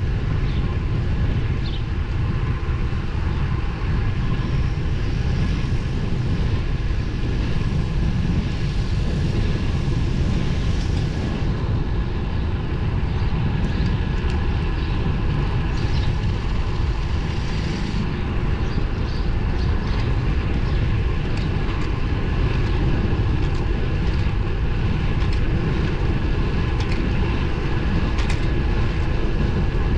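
Steady wind rush on the microphone and tyre noise from a road bike riding along the road, with a heavy low rumble and occasional small ticks.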